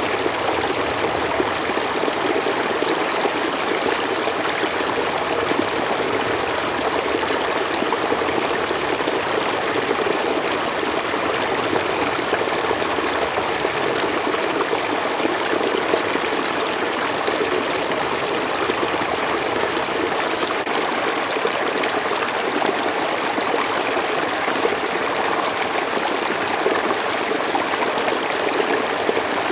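River water flowing over rocks, a steady rushing and burbling.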